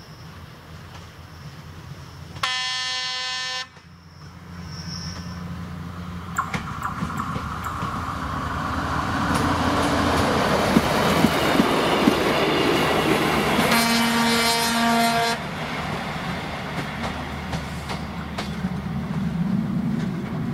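A passenger train sounding its horn twice for the unprotected level crossing: a short blast a few seconds in, and a longer one about halfway through. Between them the rumble of the approaching train grows steadily louder, with scattered clicks of wheels over the rails.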